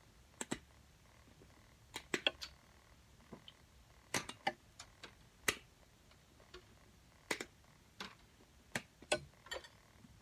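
Plastic pieces being pulled and pried off a microwave's insides: irregular sharp clicks and snaps, some single and some in quick clusters.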